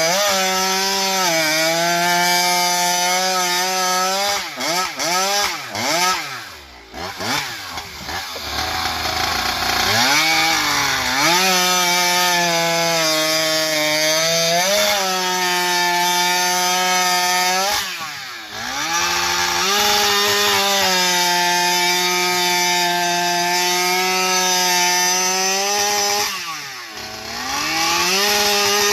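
Mastermind-ported Stihl MS661 chainsaw with a tuned expansion-chamber exhaust pipe cutting through a log at full throttle, holding a steady high pitch under load. Three times the engine drops off and revs back up between cuts, the longest break about a quarter of the way in.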